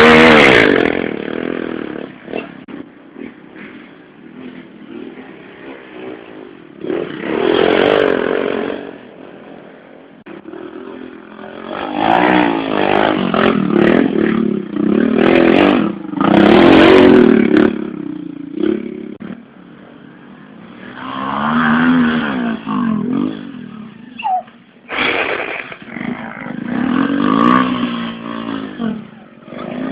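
Small 110cc motorcycles racing on a dirt track, passing by one after another. Each engine revs and swells as it comes near, then fades, and the pitch rises and falls with each pass.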